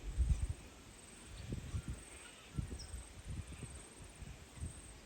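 Irregular muffled low thumps and rumbles of buffeting on the microphone, strongest in the first half-second, with no voices.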